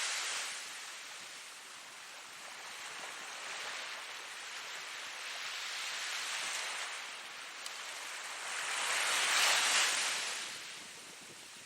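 Ocean surf: a steady wash of waves, with the tail of one wave fading away at the start and the next swelling and breaking loudest about nine to ten seconds in before it dies back.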